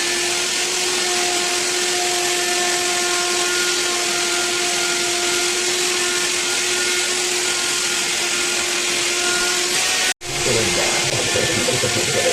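An electric power tool's motor running steadily, a loud hiss with a constant whine. About ten seconds in it cuts off abruptly and voices follow.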